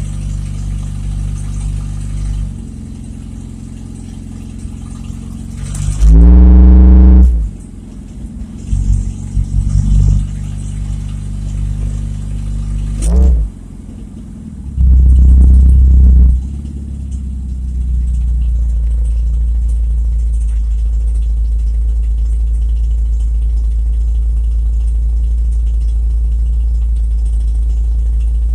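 Car engine and exhaust running loud while driving, revving up hard twice, about six and fifteen seconds in, then holding a steady drone. The exhaust is loud because it needs repair.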